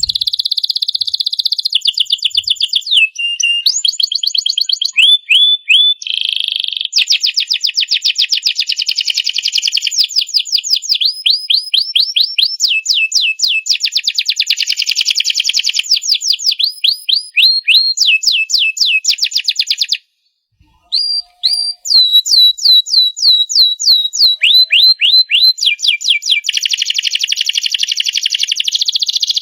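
A domestic canary sings a long, continuous song of fast rolling trills and rapid repeated chirping notes, all high-pitched. It breaks off for about a second two-thirds of the way through, then goes on. This is the full, sustained song that keepers call "gacor".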